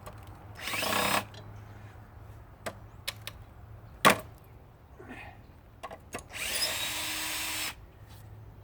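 Cordless drill with a nut driver spinning on bolts in two short bursts, the first brief and the second over a second long, each revving up as it starts. These are the bolts being driven off the motor of a central air conditioning unit. A single sharp knock comes about four seconds in.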